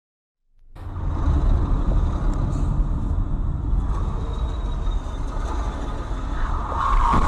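A road vehicle driving, a steady low rumble of engine and road noise that starts suddenly after about half a second of silence.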